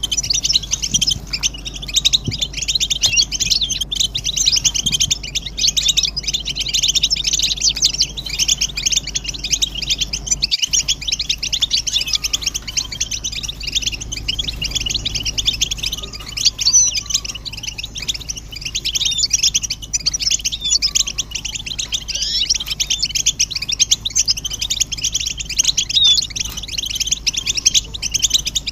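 A chorus of European goldfinches twittering and singing nonstop, a dense tangle of quick high chirps and trills. The sound drops out for an instant about ten seconds in.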